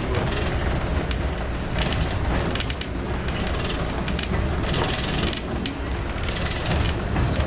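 Train running along the line, heard from the cab: a steady low rumble with rattling and knocking, and short bursts of higher rushing or hissing noise, the strongest a little past the middle and near the end.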